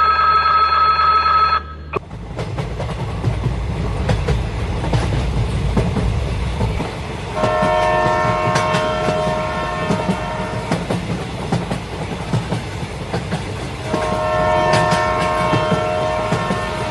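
A train pulling away: a steady tone that cuts off about two seconds in, then a running rumble with clickety-clack over the rails and two long horn blasts, the first about seven seconds in and the second near the end.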